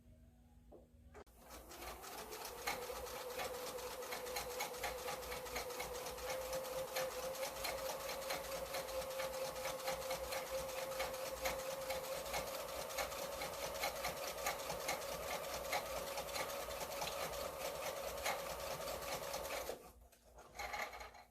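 Electric sewing machine stitching: the motor starts about a second in, its hum rising as it gets up to speed, then runs steadily with a fast, even needle ticking. It stops shortly before the end, followed by a few light knocks.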